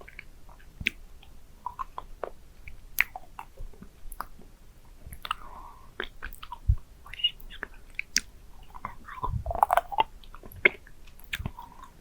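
Close-microphone mouth sounds of a candy being licked and sucked: scattered wet clicks and smacks at irregular intervals.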